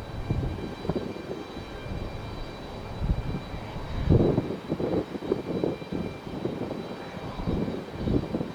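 CFM56 jet engines of an arriving Boeing 737-800 airliner: an uneven rumble that swells and fades, loudest about halfway through, over a faint steady high whine.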